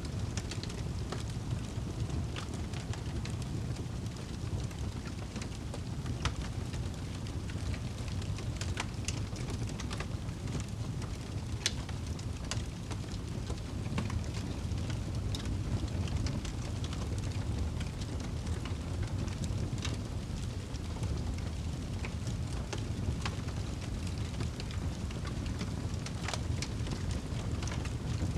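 Fireplace fire crackling: scattered sharp pops and snaps over a steady low rumble.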